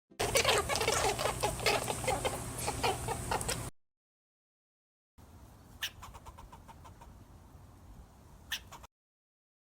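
Chickens clucking, a quick run of short repeated clucks lasting about three and a half seconds. It cuts off abruptly, and after a short silence a quieter clip follows with a few sharp clicks.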